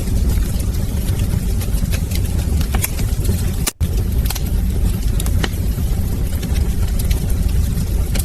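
Wood fire in a fireplace crackling, with a steady low roar of the flames under scattered sharp pops. The sound cuts out for an instant a little before the middle.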